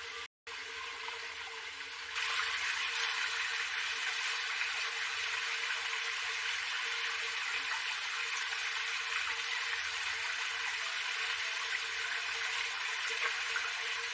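Steady rushing of water, with a brief dropout just after the start, and louder from about two seconds in.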